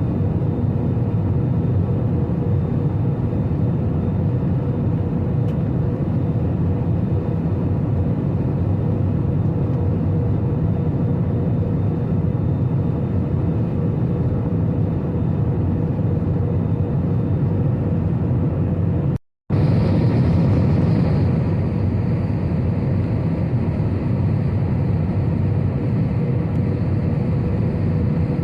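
Steady drone of an airplane's engines and airflow heard inside the cabin in flight, with a constant hum running through it. The sound drops out for an instant about two-thirds of the way through.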